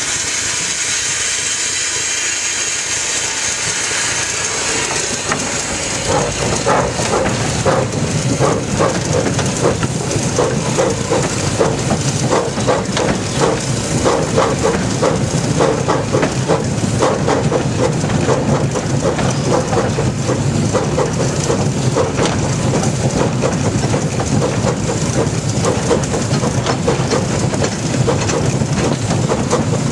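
1927 Vulcan steam locomotive hissing steam, then from about six seconds in running with a steady rhythmic beat as it moves along the track.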